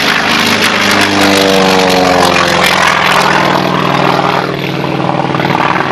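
Piston-engined propeller aircraft racing past. The engine drone drops in pitch as one goes by, between about one and three seconds in, then holds as a steady drone.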